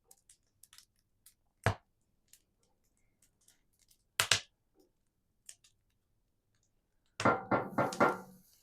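Cooking handling at a woodstove: faint scattered ticks and two sharp single knocks, then, near the end, a quick run of about four ringing metallic clinks, like a utensil against a metal pot.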